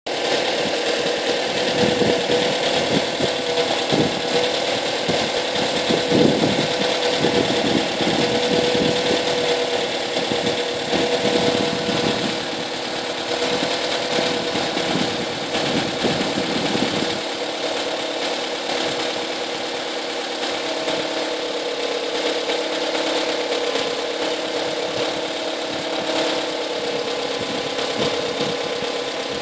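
2005 Smart ForFour 1.3-litre four-cylinder petrol engine running at idle. It has irregular pulses for roughly the first half, then settles to a steadier, slightly quieter run.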